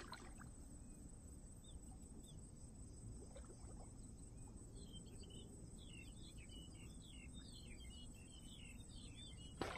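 Quiet outdoor background with a faint low rumble; from about halfway through, small birds twitter with many short, rapid chirps.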